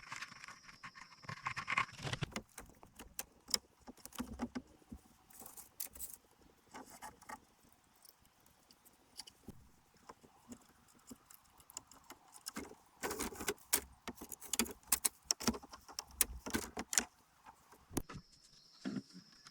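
Irregular clatter and rustling of bamboo and dry forest grass being handled, in bunches of light knocks and clicks that are busiest near the start and again over several seconds past the middle. A steady high insect buzz sounds at the start and returns near the end.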